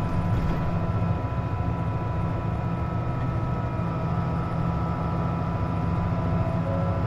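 Cabin sound of a KC-JP250NTN medium-size city bus running, with a steady engine and drive rumble. Over it runs a constant high whine of two steady tones: the odd noise that comes with the air conditioning being switched on.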